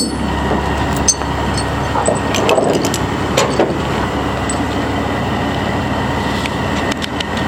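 A vehicle engine running steadily, with a few sharp clicks and knocks over it.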